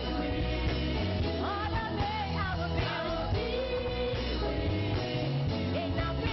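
Live gospel praise music: a band with a steady bass line and singers carrying a sustained, gliding melody.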